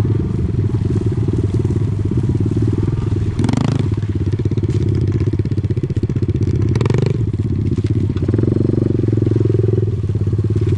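Off-road vehicle engine running steadily with a fast, even firing pulse, heard from on board while it rides down a trail descent. A brief rattle or knock comes about a third of the way in and again near the middle, and the engine note rises a little toward the end.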